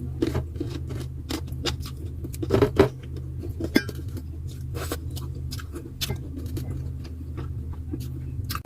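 Close-up eating sounds: a person chewing and crunching food, with scattered sharp clicks and smacks, a louder cluster about two and a half seconds in, over a steady low hum.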